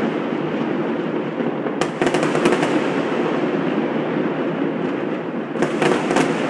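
Aerial firework shells bursting: rapid clusters of sharp bangs and crackles about two seconds in and again near the end, over a continuous dull rumble.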